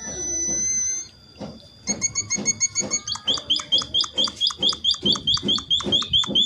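Emprit (small munia-type finches) calling. A thin high whistle is held for about the first second, then a fast run of short repeated chirps, about four or five a second, starts about two seconds in and grows louder.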